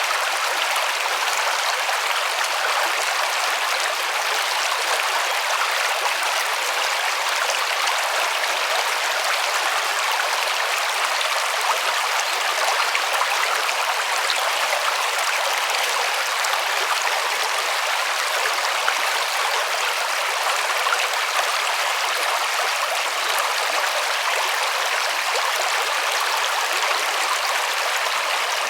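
River water rushing and splashing over stones, a steady even hiss with little low rumble.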